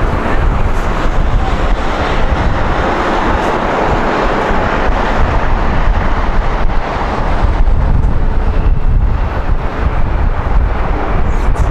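Jet airliner engines running loud and steady, mixed with wind buffeting the microphone.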